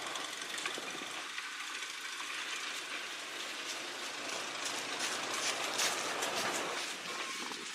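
1.5-ton forest railway motor car (GB1.5 No. 4) running along narrow-gauge track, with rattling and clicking from wheels and running gear that comes thickest about five to six seconds in.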